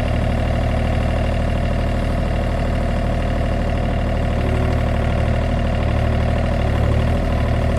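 John Deere 35G mini excavator's diesel engine running steadily.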